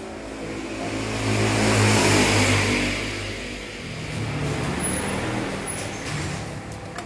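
Mercedes-Benz W211 E240's M112 V6 engine being revved: it rises to a peak about two seconds in, drops back, then rises in a second, smaller rev.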